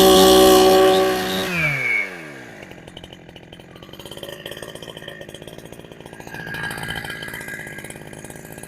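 Two-stroke Husqvarna 372XP clone chainsaw, running on a genuine carburettor, held at high revs and then dropping back about two seconds in to a steady idle.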